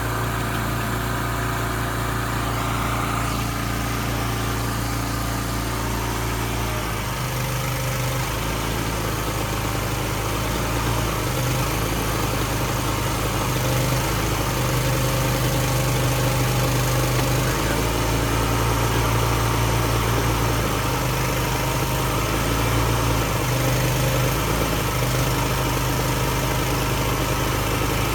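Grapple truck's engine running steadily; about seven seconds in its pitch rises slightly and then wavers up and down as the engine speed changes under the work.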